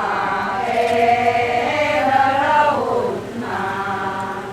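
A group of voices chanting a Siraya qian-qu (牽曲) ritual song: one long held phrase whose pitch slides down near its end, then the next phrase starting a little after three seconds in.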